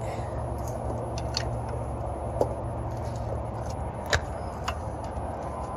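Scattered light metallic clicks and clinks of brass hose fittings and tools being handled as hoses are connected for a vacuum, the sharpest about two and a half and four seconds in, over a steady low hum.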